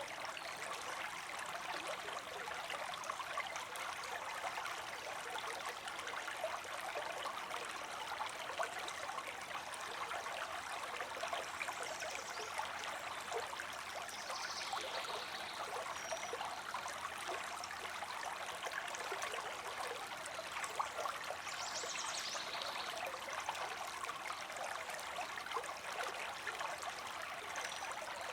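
River water flowing, a steady continuous rush and trickle.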